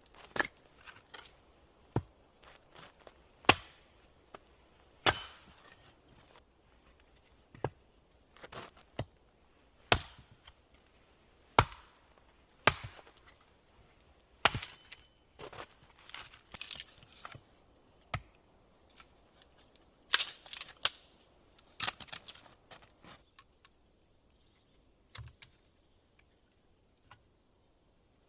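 Wood being chopped: about fifteen sharp blows at irregular gaps of one to two seconds, stopping about 23 seconds in.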